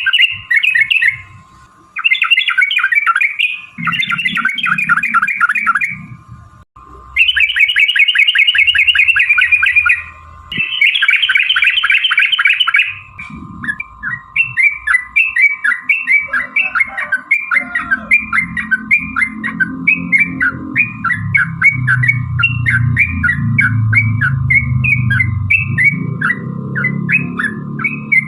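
Yellow-vented bulbul song: fast, rolling chattering phrases in several bursts, then from about halfway a long run of short repeated notes. A steady hum sits underneath, with a low rumble in the later part.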